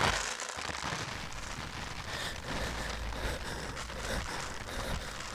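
Homemade foley rain: a steady hiss of falling rain.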